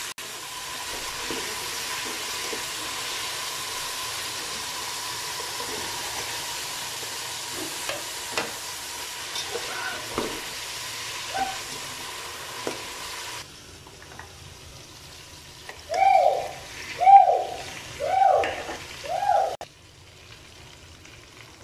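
Sliced onion and whole spices frying in oil in an aluminium pot: a steady sizzle with a few scrapes of a spatula, cutting off suddenly about 13 seconds in. Chicken pieces are then stirred in the pot with a steel spoon, with four loud squeaks about a second apart near the end.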